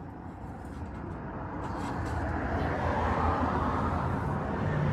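Outdoor traffic noise: a vehicle's engine and tyre rumble building steadily louder as it approaches.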